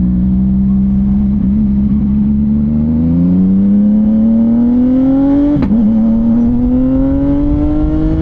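CFMOTO 675NK inline-three engine through a titanium full-system exhaust, holding a steady note and then accelerating. The pitch climbs, drops sharply with an upshift about five and a half seconds in, and climbs again.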